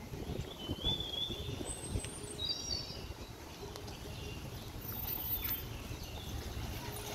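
Birds chirping in a few short calls over a steady low outdoor background rumble.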